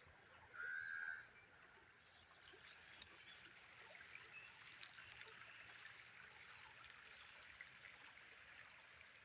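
Small stream trickling steadily, with a single short whistled bird call about half a second in, the loudest sound, and a sharp click around three seconds in.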